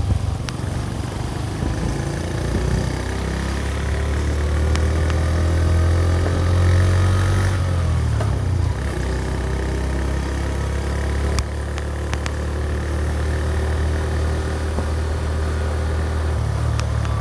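Honda Magna 50's small single-cylinder engine running under way: its pitch climbs for several seconds as the bike speeds up, drops back about eight seconds in, then runs steady.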